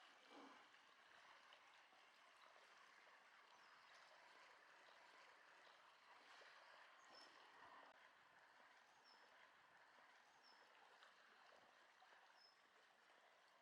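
Very faint outdoor ambience: a soft, even wash of noise, possibly water or distant traffic, with a small bird's short high chirp every second or two.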